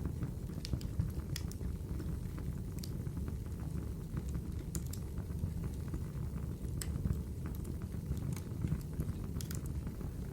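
Wood fire in a fireplace burning with a steady low roar and sharp, irregular crackles and pops from the burning logs.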